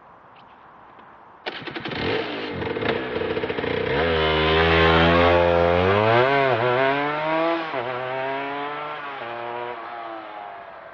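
2008 Aprilia RS 125's two-stroke single-cylinder engine with a full Arrow exhaust, heard suddenly about a second and a half in, accelerating hard past. Its pitch climbs and drops back at several gear changes, and it fades away near the end.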